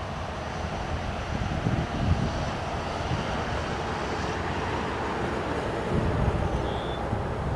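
A train rolling past with a steady rumble, while gusts of wind buffet the microphone.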